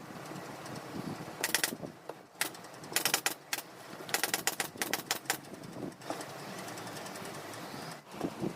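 Several short runs of rapid, sharp clicks: mechanical clicking from hand work on the sofa.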